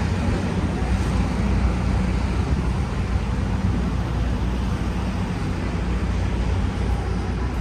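Steady street traffic: a continuous low rumble of passing and idling vehicles with an even hiss of road noise.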